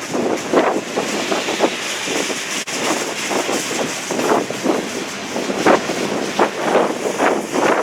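Heavy wind buffeting the microphone in irregular gusts, a loud rushing that comes and goes every second or so.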